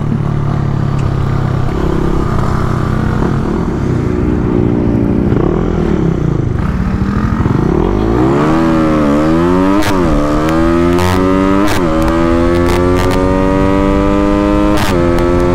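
Honda RS150's single-cylinder engine heard from the rider's seat: it runs at a fairly steady pitch, then about halfway through it revs up through several quick gear changes, each a sharp dip and climb in pitch, and pulls in a long slow rise toward the end.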